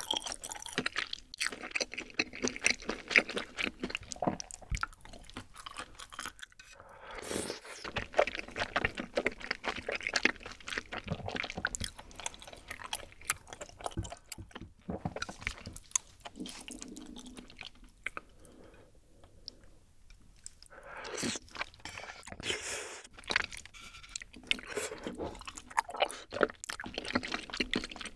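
Close-miked mukbang eating sounds: wet chewing of rosé-sauce tteokbokki rice cakes and wide glass noodles, in irregular bites with many small clicks and smacks, quieter for a moment past the middle.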